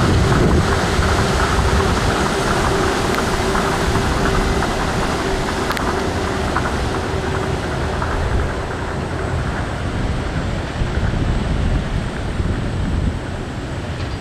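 Tokyo Monorail train running past with a steady whine that stops about halfway through, its running noise easing toward the end.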